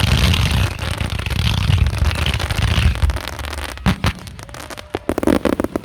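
Aerial fireworks show: a dense barrage of booms and crackling for about three seconds, then thinning into a few sharp separate cracks near the end.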